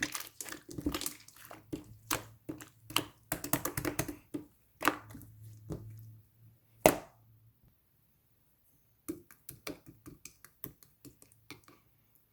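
Hands squishing and pressing slime, making quick runs of small wet clicks and crackles, with one louder pop about seven seconds in. After a short pause, sparser clicks follow.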